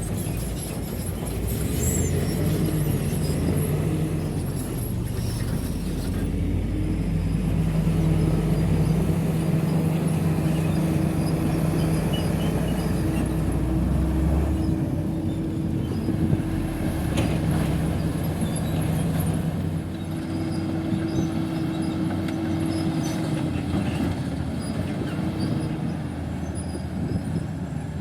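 Heavy diesel earthmoving machinery running under load, a steady engine drone whose pitch dips and rises a few times in the second half, with a brief high squeal about two seconds in.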